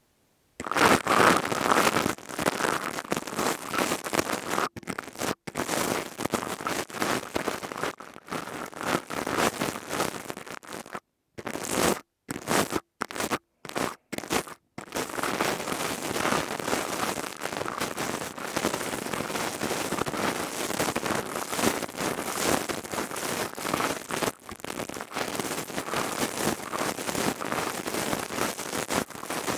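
ASMR crystal tubes making a dense crackling, scraping sound. It starts about half a second in and breaks off in several short pauses between about 11 and 15 seconds.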